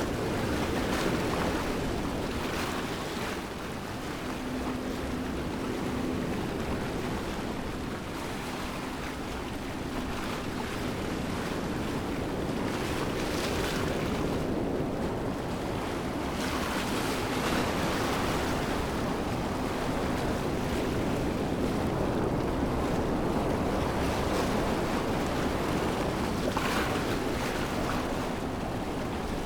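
Steady rushing water of a waterfall, a dense even roar that swells and eases a little every few seconds.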